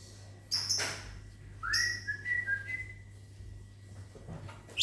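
A person whistles at lovebirds: one whistle that glides up and then holds a steady high note for about a second. Just before it, a lovebird gives a short sharp chirp.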